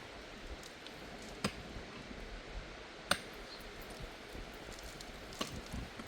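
A few sharp clicks over faint background hiss, the two loudest about a second and a half and three seconds in.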